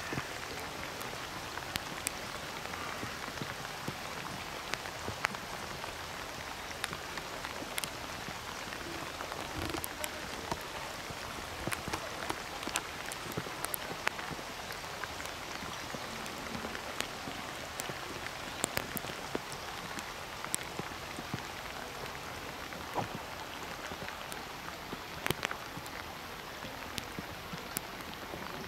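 Steady rain falling on harbour water, with scattered sharp taps of individual drops landing close by.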